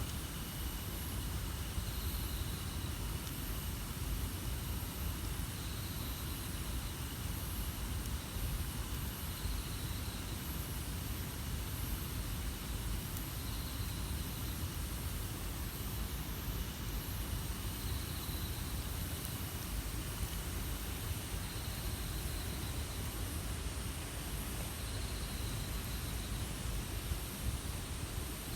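Steady outdoor background hiss with a low rumble, and a faint high chirp repeating about every two seconds.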